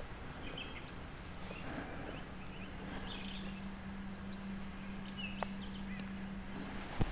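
Faint, scattered bird chirps over a quiet outdoor background, with a low steady hum under most of it.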